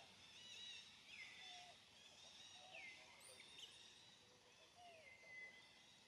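Faint forest ambience with birds calling: high chirps and a repeated whistled call that drops in pitch, heard about every second and a half.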